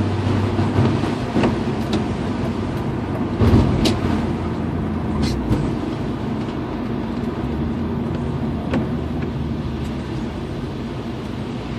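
BMW E36 M3's straight-six engine running steadily under road noise, with a low thump and a few sharp ticks.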